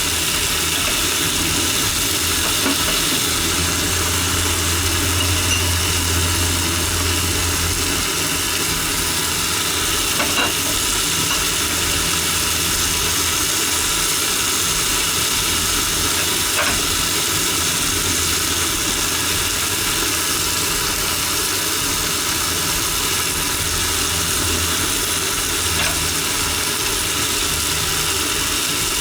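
Long green onions and thick deep-fried tofu sizzling steadily in a frying pan, with a low hum underneath and a couple of light clicks.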